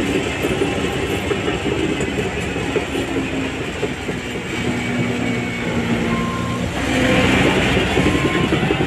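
Shantui DH17C3 crawler bulldozer at work: its diesel engine runs steadily while the steel tracks clatter. The sound grows louder and harsher about seven seconds in.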